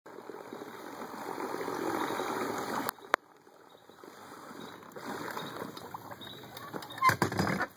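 Water sloshing and splashing, breaking off suddenly about three seconds in, with a sharp click just after and a louder splashy burst near the end.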